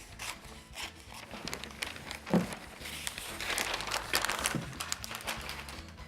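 Paper rustling and crumpling in irregular bursts as an excess piece of covering paper is pulled off and handled.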